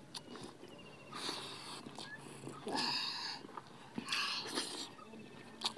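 People eating rice and egg curry by hand: wet chewing and lip-smacking mouth sounds, coming in three short bursts with a few small clicks between.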